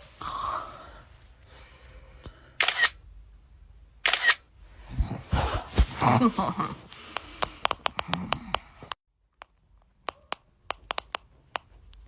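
Camera shutter clicks, a few spaced out at first and then many in quick succession, like a phone snapping a string of photos, with two louder clicks before it.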